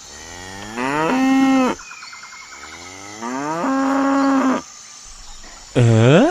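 Cow mooing: two long moos that rise in pitch and then hold steady, and a third beginning near the end with a sharp upward sweep.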